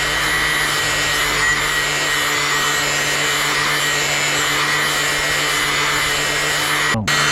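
Angle grinder with a flap disc running steadily with a high whine, grinding the edge of a pair of garden shears to sharpen the blade. The sound breaks off briefly near the end.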